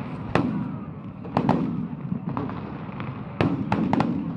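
Aerial fireworks exploding in a series of sharp bangs: one about half a second in, a quick pair about a second and a half in, and a rapid cluster of several about three and a half seconds in.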